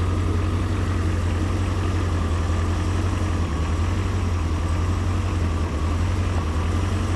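1988 Callaway Twin Turbo Corvette's twin-turbocharged V8 idling steadily, a low, even engine sound.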